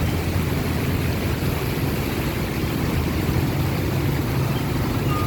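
A steady low engine-like rumble under an even hiss.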